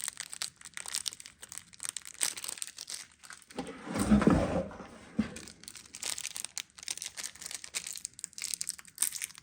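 Rustling and crinkling of small parts and packaging being handled, with scattered light clicks and a louder bump about four seconds in.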